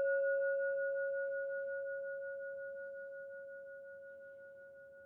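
A singing bowl's ring dying away: a steady, pure tone with a higher overtone, wavering slightly as it slowly fades out.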